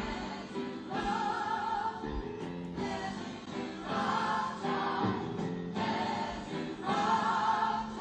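Background music: a choir singing slow held phrases over sustained chords, starting suddenly.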